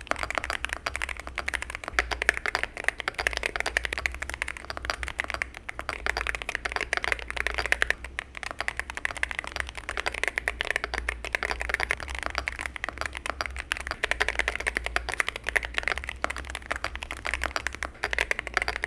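Continuous typing on a CIDOO C75 Hall effect magnetic keyboard with Gateron KS20 magnetic switches and PBT keycaps, fitted with the tape mod: a fast, unbroken run of keystrokes. The chattering sound, which the reviewer takes for a switch trait showing mostly on the upstroke, is still present.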